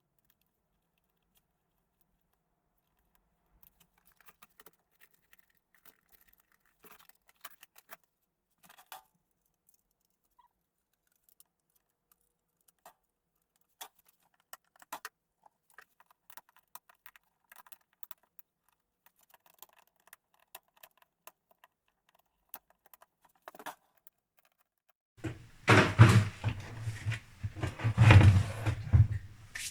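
Faint, scattered clicks and taps of plastic trim clips being handled and pressed into a car door card. Near the end this gives way to louder knocking and rustling handling noise.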